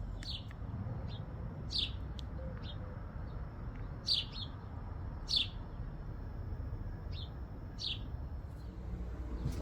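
A songbird giving short, sharp chirps, one every second or so, each sliding down in pitch, over a low steady background rumble.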